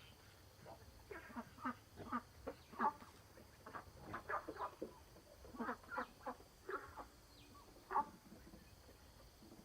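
A run of short animal calls, several a second in clusters, with pauses between them.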